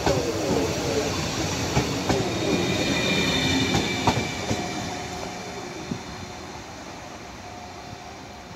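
Stadler Flirt ETR 360 regional train pulling out and passing close by: wheels clicking over rail joints, with a falling whine in the first second, fading steadily as the train draws away.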